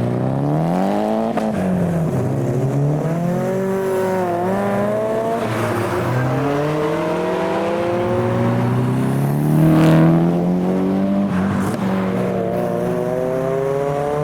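Car engine accelerating away, revving up through the gears: the pitch climbs and then drops at each of several shifts, loudest about ten seconds in.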